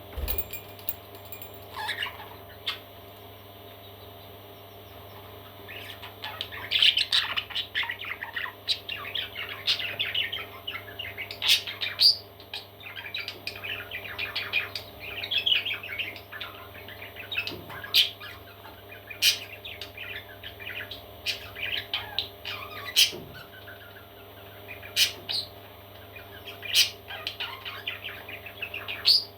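Parrot chicks chirping and squawking in a dense, continuous chatter that starts about six seconds in, after a few scattered chirps, with several sharp clicks among the calls.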